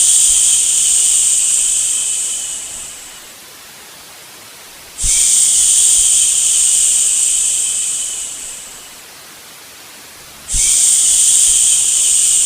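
Long "shhh" shushing sounds for settling a baby to sleep, one about every five and a half seconds. Each starts sharply and fades away over about three seconds, over a soft steady white-noise hiss.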